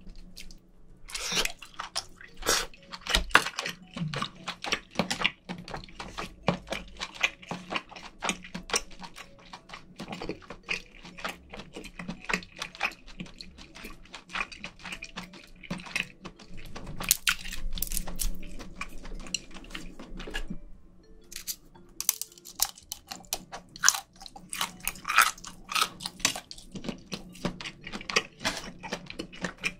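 A person chewing mouthfuls of spicy seafood stew, a mussel first, close to the microphones: a steady run of small wet clicks and crunches, with a short pause about two-thirds of the way through.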